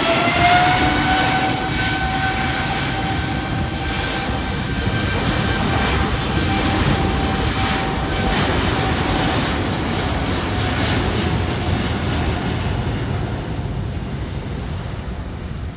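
Airbus A330-900neo's Rolls-Royce Trent 7000 turbofans at takeoff thrust: a loud jet roar with an engine whine that rises in pitch in the first second and then holds steady, the whole sound fading slowly near the end.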